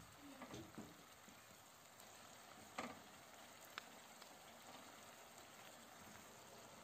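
Grated tomato and onion sauce sizzling faintly in a frying pan, a low even hiss. A short clink of a utensil on the pan sounds near three seconds in, with a smaller tick a second later.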